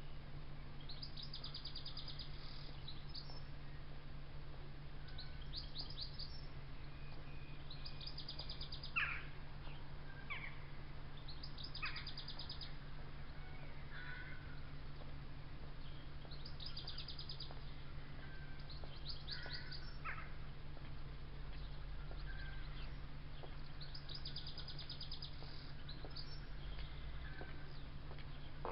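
Songbirds singing: short trilled phrases repeated every few seconds, with a few sharp chirps about a third of the way in, over a steady low hum.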